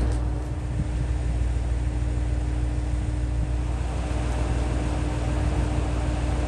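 Steady running noise of the Setsugekka diesel railcar: a low rumble with an even hum.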